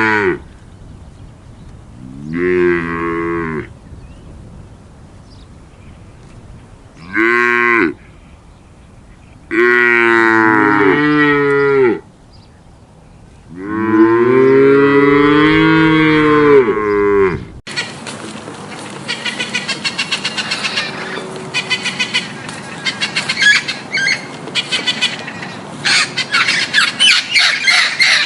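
Cattle mooing: about five long, drawn-out moos with pauses between them. About two thirds of the way through, the recording cuts abruptly to a dense chorus of many birds calling at once, with harsh, rapid overlapping calls.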